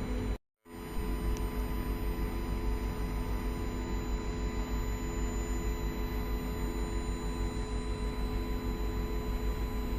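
Steady low rumble with a constant hum from a Hokusei Line 762 mm narrow-gauge electric railcar with nose-suspended motors, cut by a brief gap of silence about half a second in.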